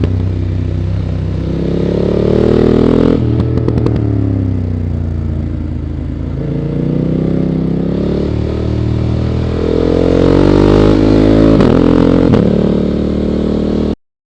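BMW F 900 GS parallel-twin engine heard onboard at track speed, revs climbing and falling through the gears, with quick upshifts about three seconds in and again near the end, over wind rush. The sound cuts off abruptly just before the end.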